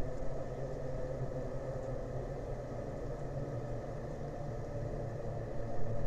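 A motor engine idling, a steady low rumbling drone with an even hum and no change in speed.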